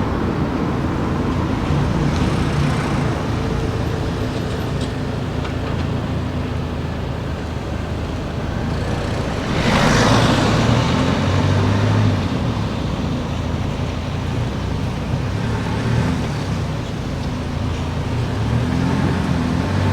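Car driving through town streets: engine hum and road noise, with a brief louder rushing swell about halfway through.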